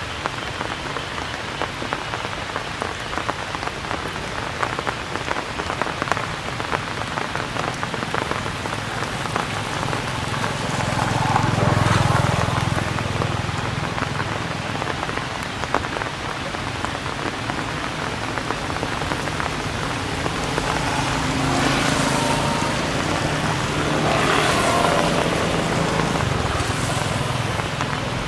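Steady rain falling and pattering on surfaces, with individual drops ticking. A louder low sound swells up about halfway through and twice more near the end.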